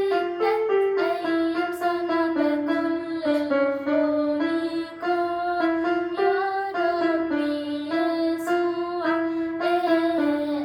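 Christian hymn: a young girl singing a melody in held, stepwise notes over electronic keyboard accompaniment.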